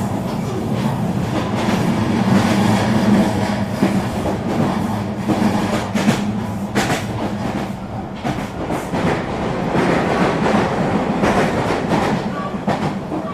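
Eurobahn regional electric train running along the line: a steady rumble and low hum, with scattered clicks and knocks of the wheels over rail joints.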